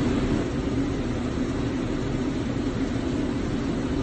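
Steady vehicle engine and road noise, a continuous rumble with a low hum and no sudden impacts.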